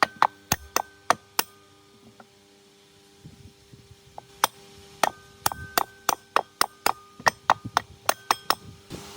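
Hammer blows on a metal part that rings after each strike. A quick run of strikes comes first, then a pause with a few light taps, then a longer run of strikes, about three or four a second. A steady machine hum starts near the end.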